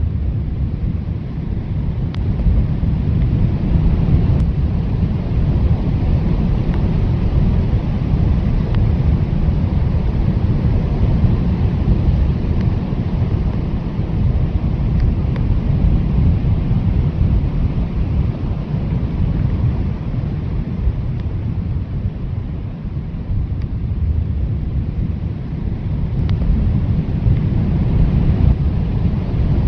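Blizzard wind blowing steadily, a deep rush of noise heaviest in the low end, swelling and easing a little in gusts.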